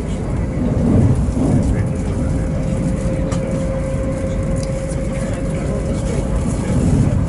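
Train running with a steady low rumble that swells twice. A steady mid-pitched whine rises above it from about two seconds in and fades about six seconds in.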